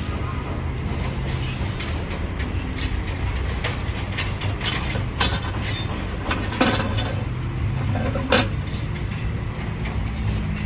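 Electric rebar bending machine running with a steady motor hum, with several sharp metallic clinks and knocks from the steel bar and machine at irregular moments.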